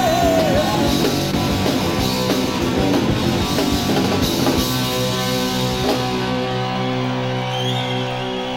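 Punk rock trio of electric guitar, bass and drums playing the closing bars of a song live. The drums and cymbals stop about six seconds in, leaving a held chord ringing.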